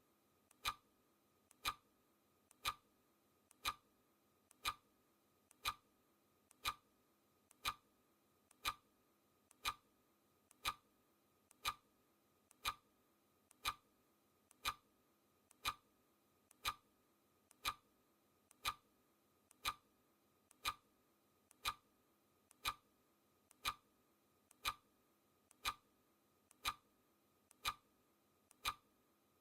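Clock ticking sound effect, one tick a second, each tick led by a much fainter click.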